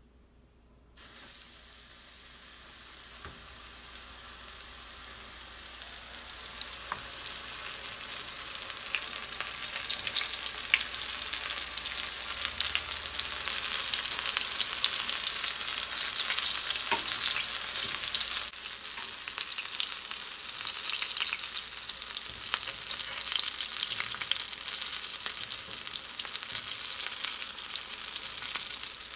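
Battered onion rings frying in hot oil in a skillet: a steady hissing sizzle dotted with small pops. It starts about a second in and grows louder over the next several seconds, then holds.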